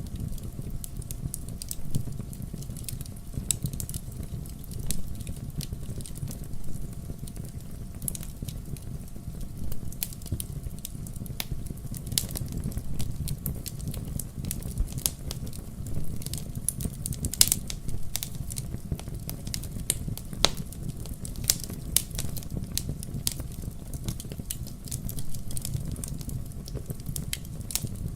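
Wood fire burning in a fireplace: a steady low rumble of flames with irregular crackles and occasional sharper pops of the burning logs.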